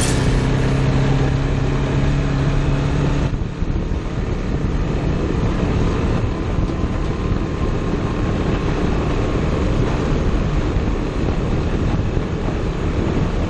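A vehicle engine running steadily under heavy rushing noise. A clear engine tone sounds for the first three seconds or so, then cuts off abruptly into a similar rush with a fainter tone.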